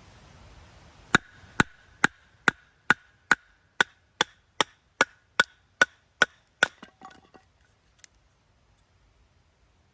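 A steady run of about fourteen sharp blows, roughly two and a half a second, each with a short ringing note, ending in a few lighter knocks. The blows sound like something being struck with a tool, such as a stake being driven or wood being split.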